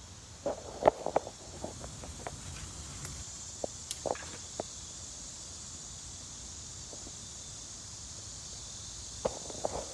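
Irregular footsteps and rustling on outdoor ground, in a cluster about a second in, a few scattered steps after, and more near the end. A steady high hiss sits underneath throughout.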